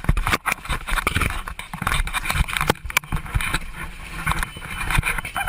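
Irregular clatter of knocks and scrapes over a rushing, sloshing noise inside the cabin of a small plane that has ditched in the sea: passengers scrambling as seawater comes in.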